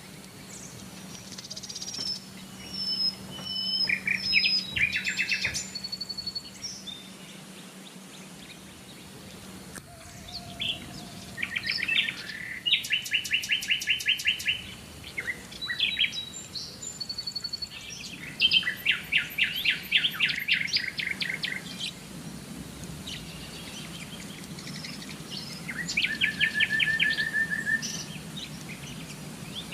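Several songbirds singing and calling: short high chirps and whistles mixed with rapid trills of evenly repeated notes that come in spells of a second or two, several times over. A faint steady hum lies under the first third.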